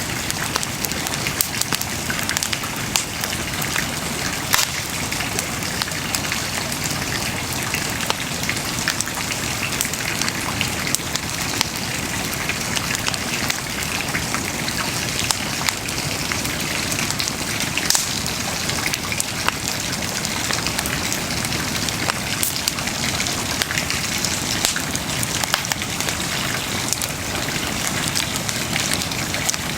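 Wood bonfire burning with a constant hiss and dense crackling, with a few louder pops standing out now and then, at about 4, 18 and 22 seconds in.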